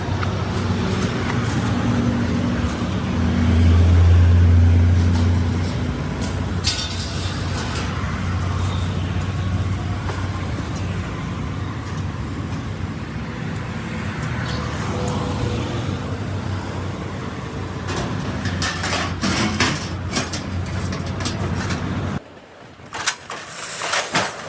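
A motor or engine running with a steady low hum that swells louder for a couple of seconds about four seconds in, then cuts off abruptly near the end, followed by a few sharp clicks and knocks.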